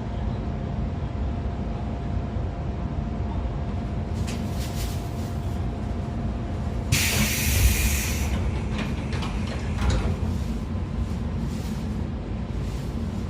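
Running noise of a JR 113 series electric car, a motor car with MT54 DC series-wound traction motors and DT21B bogies: a steady rumble of wheels on rail with a faint steady whine. About seven seconds in the whine stops and a loud hiss of air lasts about a second, with a few sharp clatters before and after it.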